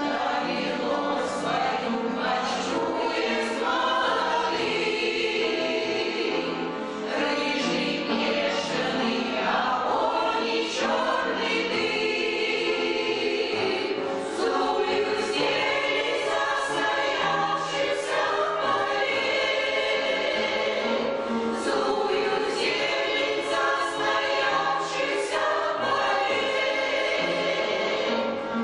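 An amateur veterans' choir singing a song together, the voices sustained and continuous.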